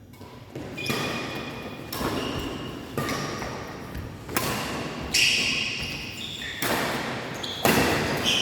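Badminton rally: rackets striking the shuttlecock about once a second, each hit a sharp crack with a short echo from the hall.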